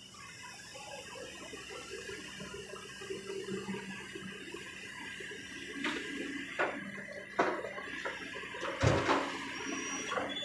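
Excavator at work, its engine running with a steady hum under a rushing noise. From about six seconds in come several knocks and thuds, the loudest near the end, typical of earth and rock dropping from the bucket into a dump truck's bed.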